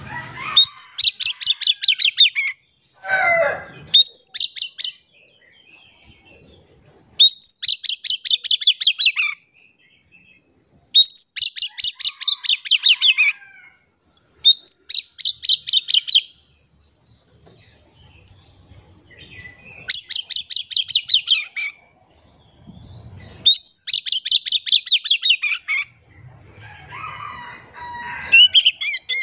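Oriental magpie-robin (kacer) singing loudly in repeated phrases. Each phrase is about two seconds of rapid, sharp, stuttering notes, and the phrases are separated by short pauses. About three seconds in there is one lower call that slides downward.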